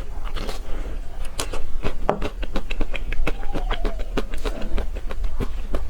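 Close-miked eating of a chocolate-coated ice cream bar: a quick, irregular run of crisp clicks and crackles as the chocolate coating is bitten and chewed, with wet mouth sounds.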